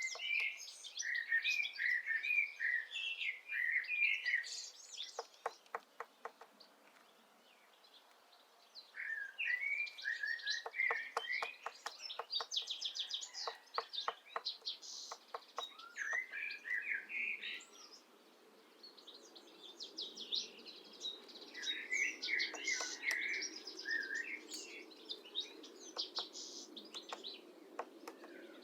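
Small songbirds chirping and singing almost without a break. Between their phrases come several runs of quick, dry taps: a Syrian woodpecker pecking and chiselling out a nest hole in apple wood.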